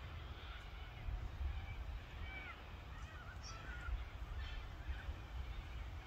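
Wild birds calling in the background: a few short chirps and whistles over a low, uneven rumble of wind on the microphone.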